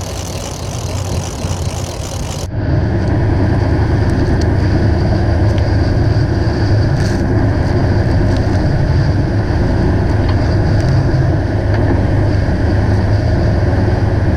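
Fishing boat's engine running steadily with a low drone, over wind and water noise. About two and a half seconds in the sound changes suddenly: the engine gets louder and the high hiss drops away.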